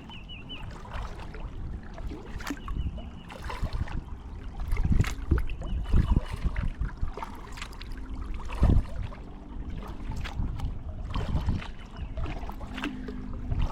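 Kayak being paddled: irregular paddle strokes splashing and dripping, with occasional knocks against the hull and a few brief high squeaks.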